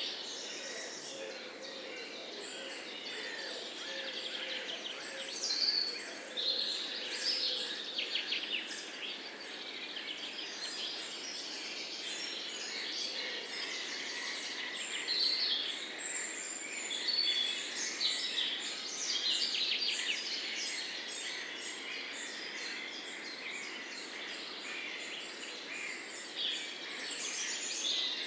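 Several songbirds chirping and trilling continuously, many short overlapping calls and quick trills, over a steady faint background hiss.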